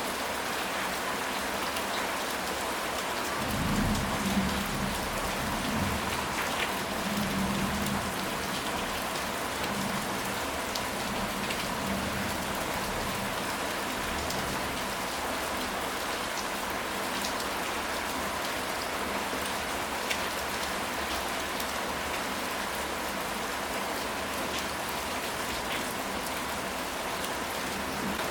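Steady rain falling, a constant hiss with scattered individual drops ticking. About four seconds in, a low rumble of thunder rolls for a few seconds and fades.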